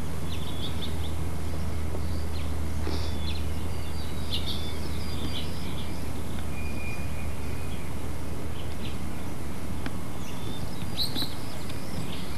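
Small birds chirping now and then, in short high chirps, over a steady hiss and low hum.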